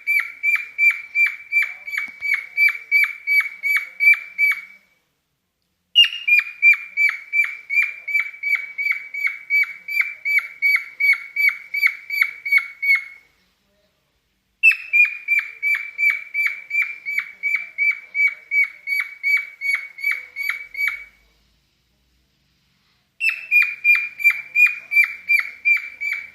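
Cockatiel singing in a mating mood: phrases of rapid chirps repeated evenly on one pitch, about four a second. Each phrase opens on a higher note and runs several seconds, with pauses of a second or two between phrases.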